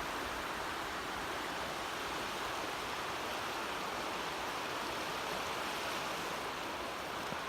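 The Neversink River rushing in a steady, even roar of running water, running high with rain and melted snow.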